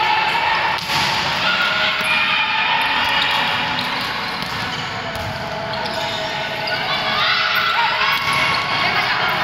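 A ball bouncing on an indoor court during a youth sparring game, amid a busy mix of players' and spectators' voices, with a sharp knock about a second in.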